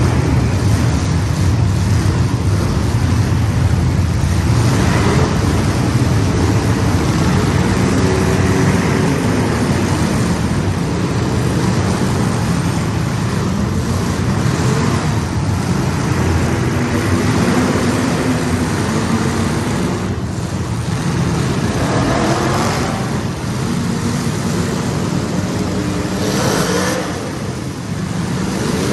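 A field of race car engines running at full throttle just after the green flag. The pitch rises and falls and the sound swells every few seconds as cars pass, loudest near the end.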